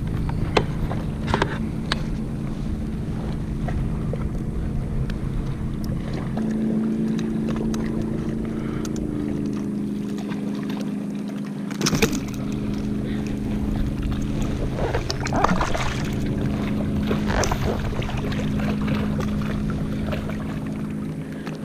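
A motorboat engine running steadily, a low hum that steps up in pitch about six seconds in, with scattered sharp knocks and clicks, the loudest about halfway through.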